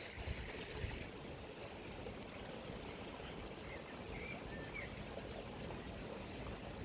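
Stream water running steadily, with a few faint high bird chirps around the middle.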